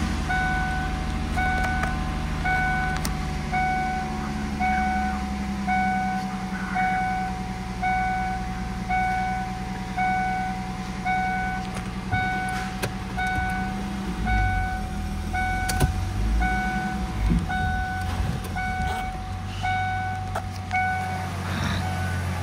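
1998 Ford Mustang's 3.8-litre V6 idling just after starting, with the dashboard warning chime beeping about once a second. About two-thirds of the way through, the engine hum shifts and there are a couple of knocks.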